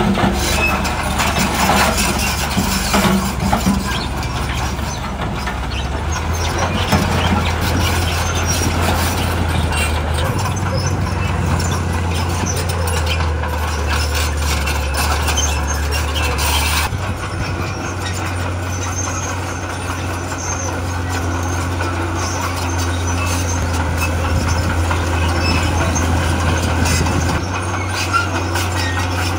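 Heavy diesel earthmoving machinery working: a steady low engine drone over rough, gritty noise, the engine note shifting in steps a few times.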